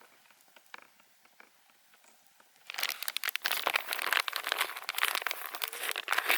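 Crinkling and crumpling of a wrapper or paper being handled, starting about three seconds in and stopping suddenly at the end, after a few faint clicks.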